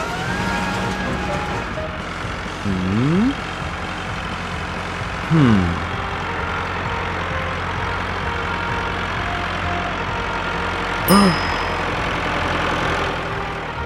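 Cartoon tractor engine idling sound effect, a steady low drone. Over it come three short wordless voice-like sounds: a rising one about three seconds in, a falling one about five seconds in, and a brief rise-and-fall with a click near the end.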